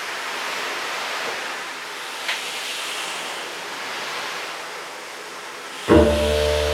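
Ocean surf washing in and drawing back, swelling and ebbing in a steady hiss of water. Near the end a deep droning note with many overtones, such as a didgeridoo's, comes in suddenly.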